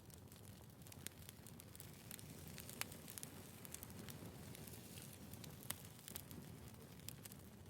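Quiet wood fire crackling: a low steady rumble of burning logs with scattered sharp pops, a few louder ones standing out.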